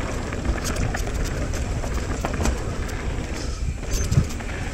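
Mountain bike descending a dirt trail, heard from a helmet chin-mounted camera: a steady rush of wind on the microphone with tyre noise and scattered rattles and clicks from the bike, and a thump about four seconds in.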